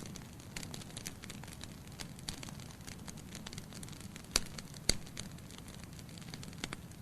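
Wood logs burning in a fireplace: a steady low rumble under many small crackles, with two louder sharp pops about half a second apart a little past the middle.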